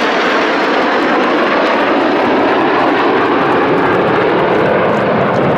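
Red Arrows' BAE Hawk T1 jets, Rolls-Royce Adour turbofans, flying past in formation: a loud, steady jet noise whose highest notes dull near the end.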